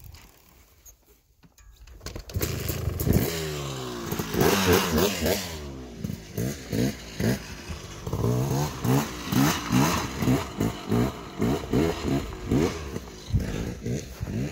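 Dirt bike engine coming in about two seconds in and revving, its pitch climbing and falling; in the second half the revs surge and drop in quick pulses, about two a second, as the throttle is worked.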